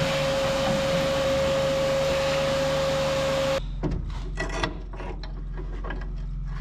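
A machine running steadily with a constant whine over a loud hiss, cutting off suddenly about three and a half seconds in. Scraping and a few light knocks follow.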